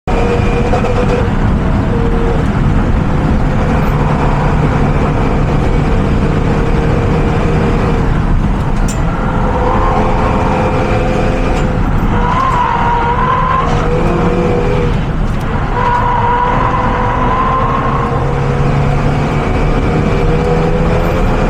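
Renault Mégane RS heard from on board at speed: the engine's note rises and falls with the throttle over steady road and wind noise.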